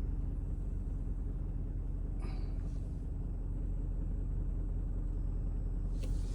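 Car engine idling while stopped, a steady low rumble heard from inside the cabin.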